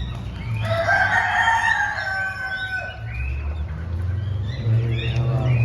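A rooster crows once, a long call starting about half a second in and lasting around two seconds, over the steady chirping of small caged birds.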